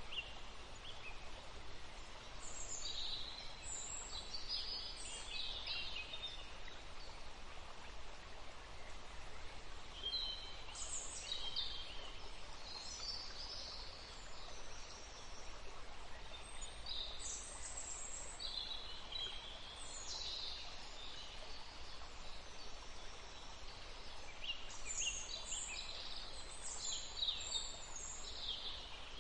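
Forest songbirds singing in several bouts of short, high chirps and trills, over a steady background hiss of outdoor ambience.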